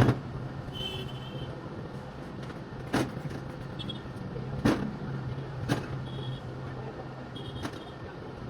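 Sharp single knocks, five of them at uneven gaps of one to three seconds, over a steady low hum.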